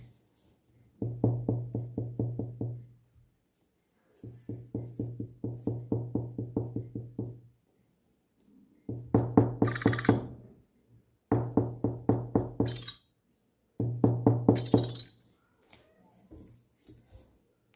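Tapping on a table in five quick bursts of rapid knocks, with high electronic chirps from a DigiBirds toy lovebird on the later bursts. Tapping the table is meant to set the toy talking or singing.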